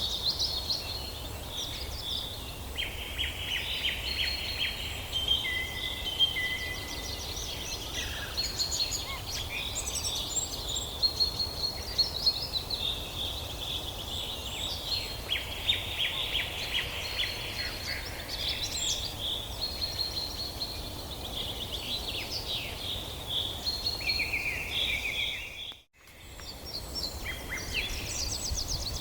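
Several songbirds singing together in a forest: overlapping trills, chirps and whistled notes, over a steady low background rumble. Near the end the whole sound fades out for a moment and comes back.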